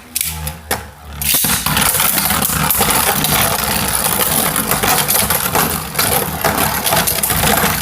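Two Beyblade Burst spinning tops, Wonder Valtryek and Z Achilles, spinning and colliding in a plastic stadium. It is a steady grinding whir, thick with rapid clicks from their hits, and it sets in about a second and a half in.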